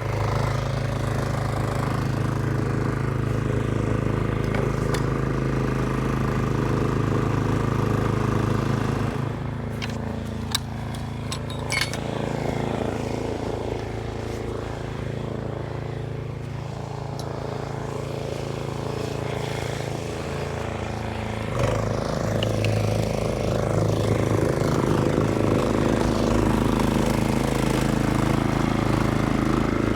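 Two-stage snowblower (Toro Power Max 826 OXE) engine running steadily while clearing snow, its note shifting as the load changes about nine seconds in and again near twenty-two seconds, with a few sharp clicks in between.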